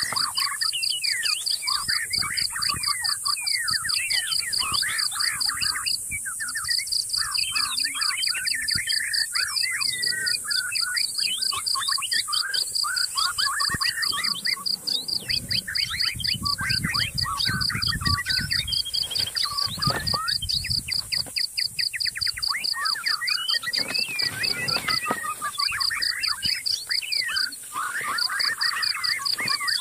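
Many birds chirping and calling over a fast, steady pulsing high note, with some low rumbling in the middle.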